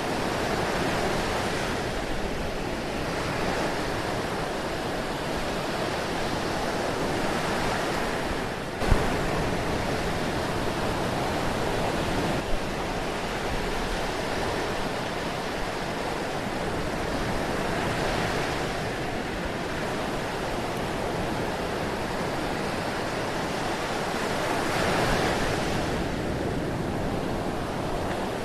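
Ocean waves washing steadily onto a shore in a continuous hiss, swelling and easing every few seconds. A sharp click about nine seconds in is the loudest moment, and a smaller one follows a few seconds later.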